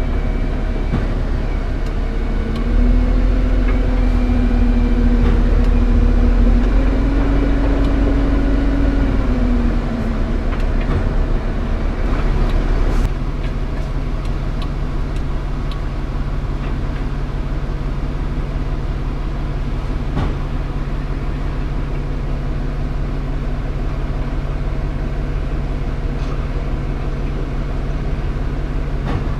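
Scania R410 concrete truck's engine running. For several seconds near the start it is louder, with a whine that rises and dips in pitch. Just before halfway it settles to a steady, even drone.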